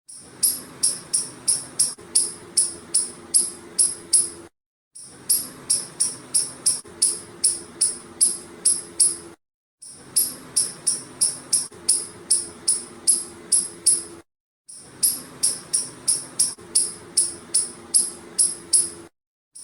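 A squirrel giving rapid, high-pitched chirping calls, about four a second, in runs of a few seconds broken by brief silent gaps.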